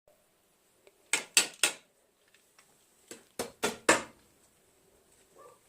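Sharp knocks or clacks in two quick groups of three, about two seconds apart, with a faint one between them, in a small, echoing room.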